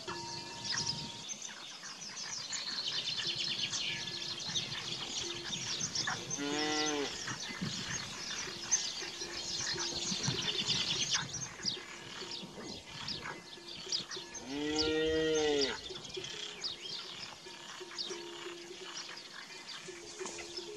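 Cattle mooing twice, two drawn-out calls about eight seconds apart that rise and then fall in pitch, over constant chirping birdsong.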